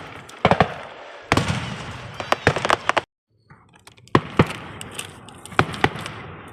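Fireworks going off: runs of sharp cracks and bangs close together, with crackling between them. The sound drops out completely for a moment about three seconds in.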